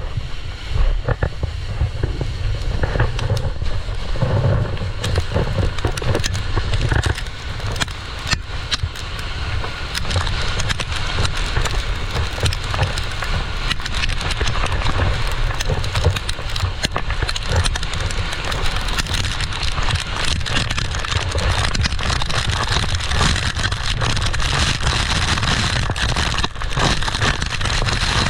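A board sliding down loose volcanic gravel, a continuous crackling scrape full of small clicks, with wind buffeting the microphone in a low rumble.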